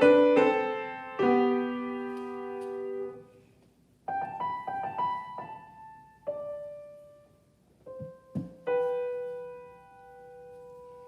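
Solo piano playing a short phrase of repeated chords, then sparser notes with pauses, ending on a final note about three-quarters of the way in that is held and slowly fades out.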